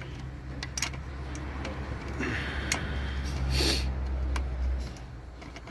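Scattered light clicks and taps of a metal heat shield and its bolts being handled and fitted, with a short scrape about two seconds in and a louder one around three and a half seconds, over a low steady hum.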